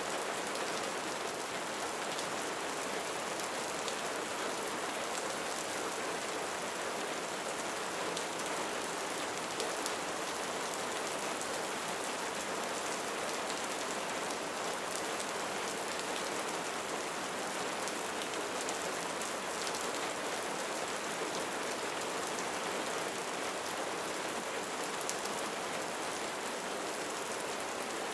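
Steady rain falling on a roof, an even, continuous patter of drops.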